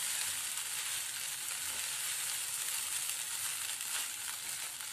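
Poha with onion and peanuts sizzling over a medium flame in a nonstick kadhai while being stirred and turned with a spatula: a steady frying hiss with faint scraping.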